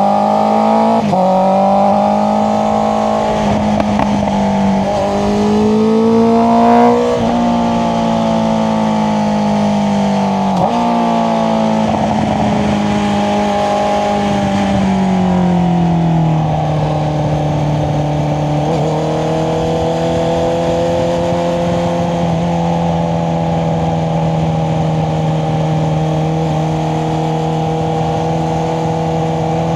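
Honda CBR650R inline-four engine through an Akrapovic exhaust, pulling up through the revs with several quick drops in pitch as it shifts gear. From about halfway it settles into a steady cruise at lower revs.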